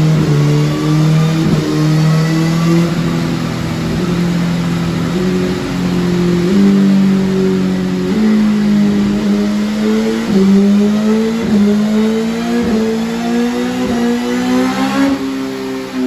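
BMW S1000RR inline-four engine running loud through an Akrapovic race exhaust under ECU mapping, held at steady speeds and stepped up in pitch stage by stage, with a few brief dips and a quick rise and drop near the end.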